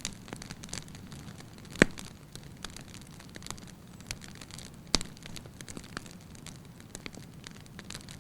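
Wood fire in a fireplace burning with a low steady hiss and scattered crackles and pops of firewood, the two sharpest snaps about two seconds in and about five seconds in.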